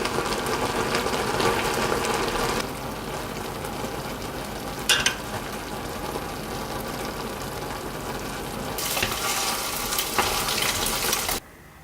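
Jjapaghetti noodles sizzling and being stirred in a pan, in a few short cuts, with a brief knock about five seconds in; the sound cuts off suddenly near the end.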